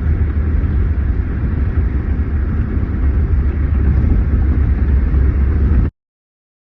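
Steady low rumble of road and engine noise inside a moving car's cabin, cutting off suddenly near the end.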